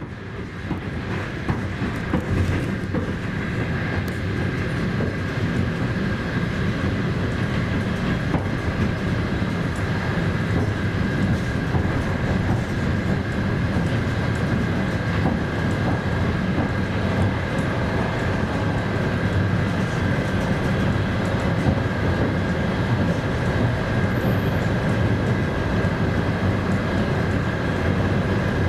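Passenger train running at speed, heard from inside the carriage: a steady rumble of wheels on rails with a thin, steady high whine above it.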